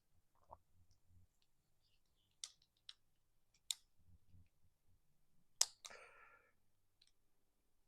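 Scattered sharp clicks and light taps, about five in all, with the loudest a little past halfway, from small metal and plastic parts and tools being handled while a fitting is put onto a plasma cutter.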